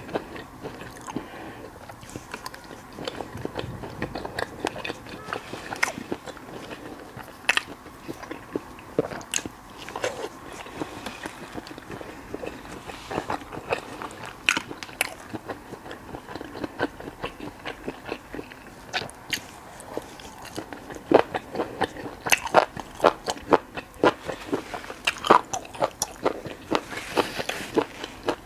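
A person biting and chewing crispy deep-fried skewered food (炸串), making a run of sharp crunches that come thicker and louder in the last several seconds.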